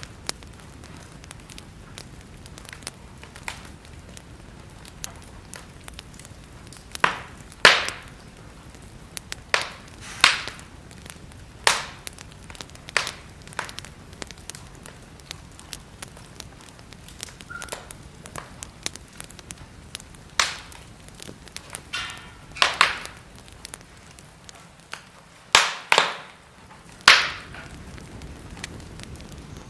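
Wood fire burning in a fireplace: irregular sharp pops and cracks from the burning wood over a faint steady hiss, with the loudest cracks clustered about seven to twelve seconds in and again near the end.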